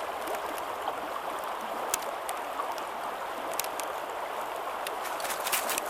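Creek water running steadily, with a few light clicks scattered through, more of them near the end.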